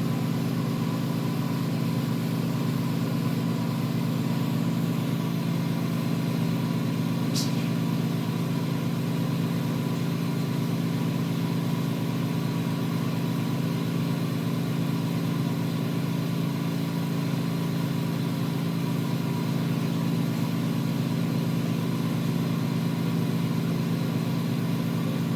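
A motor-driven machine running steadily with a low hum, with one brief faint tick about seven seconds in.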